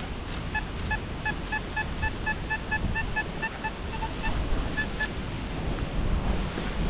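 Metal detector beeping on a target: a steady train of short, identical beeps, about four a second, that stops about five seconds in. Wind noise on the microphone runs under it.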